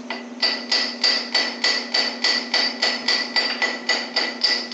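Hammer striking a metal pulley on a Chevy LT1 engine, used in place of a bearing puller to knock it off: a steady run of quick blows, about four a second, each with a clear metallic ring.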